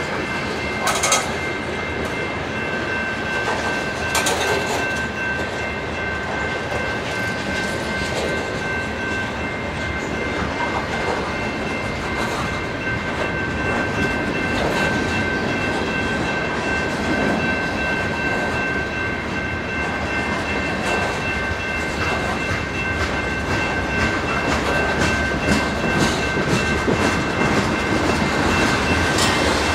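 Freight cars of a mixed train (covered hoppers, boxcars, a tank car) rolling past: steel wheels clicking and knocking over the rail joints, with the cars rattling. Steady high tones run underneath, and there are sharper knocks about a second in and again about four seconds in.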